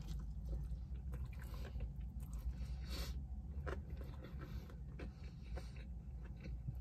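Close-up mouth sounds of a person biting into and chewing a soft tortilla wrap: small wet smacks and clicks, over a steady low hum.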